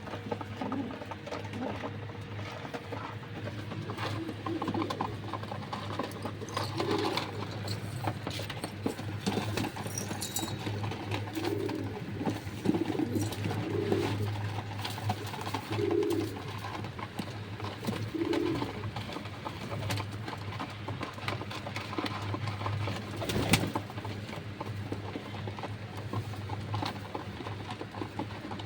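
Domestic pigeons cooing: a string of short, low coos over a steady low hum, with scattered light clicks and one sharper knock late on.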